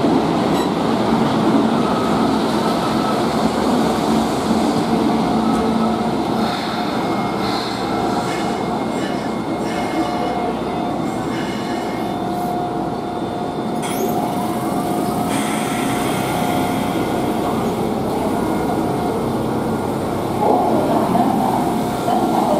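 Kintetsu 20000 series electric train rolling into a station platform and slowing to a stop, a continuous rumble of wheels on rail with a thin, steady high squeal through the middle as it brakes.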